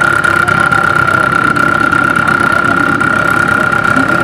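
Car engine idling steadily, with a steady high-pitched whine over it.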